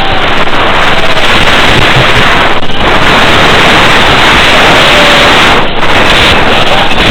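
FPV quadcopter in flight, heard from its onboard camera: a loud, harsh rush of motor, propeller and wind noise on the microphone, with a faint wavering motor whine underneath. The sound drops out briefly about five and a half seconds in.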